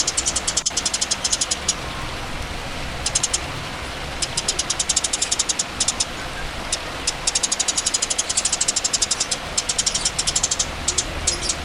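Songbird's rapid high-pitched rattling trill, about ten notes a second, repeated in bursts of up to two seconds with short breaks, over a steady low hum.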